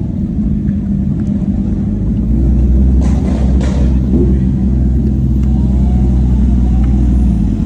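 Car engine running with a steady deep rumble, plus a short hissing sound about three seconds in.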